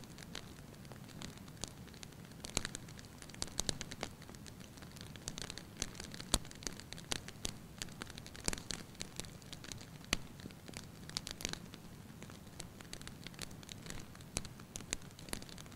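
Wood fire crackling in a fireplace: irregular sharp pops and snaps, thicker in clusters, over a steady low rumble of the flames.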